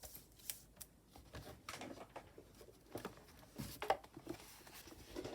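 Small objects being handled and set down on a desk: scattered light clicks, taps and rustles, with one sharper knock near the four-second mark.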